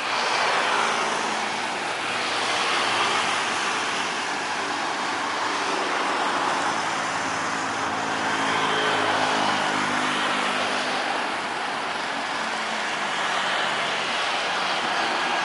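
Jet airliner passing on its landing approach: a steady rush of engine noise with low tones that slowly drift in pitch through the middle.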